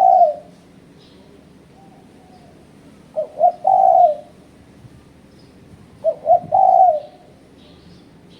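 Spotted dove (tekukur) cooing its repeated call: two short notes and then a longer, drawn-out coo, heard as the tail of one phrase at the start and two full phrases about three seconds apart. Faint high chirps sound between the phrases.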